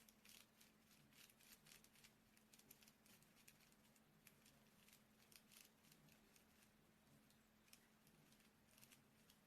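Faint, irregular scratchy dabs and strokes of a paintbrush working paint onto bubble wrap, over a low steady hum.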